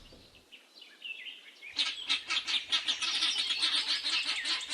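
Faint high chirps, then about two seconds in a flock of helmeted guinea fowl starts calling: harsh, rapidly repeated cries, about four a second, overlapping.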